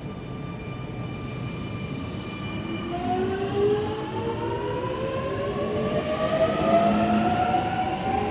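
Millennium electric train set M26 pulling away from the platform. At first there is a steady electrical whine, then from about three seconds in the traction motors' whine rises steadily in pitch and grows louder as the train accelerates.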